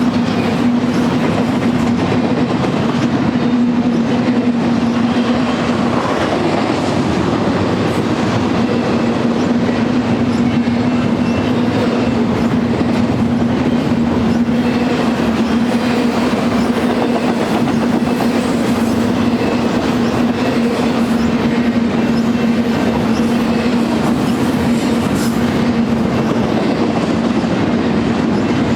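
BNSF freight train cars rolling past: a loud, steady rumble of wheels on rail with clickety-clack and a constant hum.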